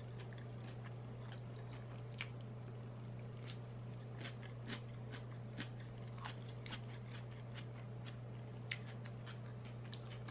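Close-miked chewing and mouth sounds of a person eating by hand, made of many small, irregular wet clicks and smacks. A steady low hum runs underneath.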